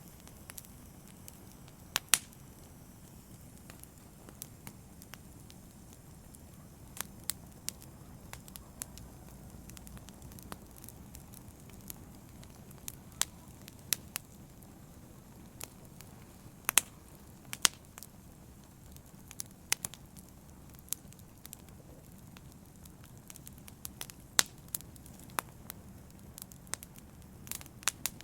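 Open wood fire burning with a low steady hiss, crackling and popping at irregular intervals, with a few sharp louder pops scattered through.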